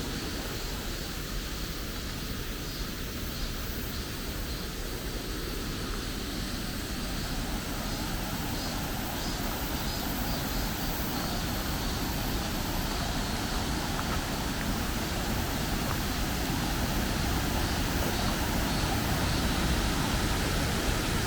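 A steady rushing noise that grows slightly louder over about twenty seconds.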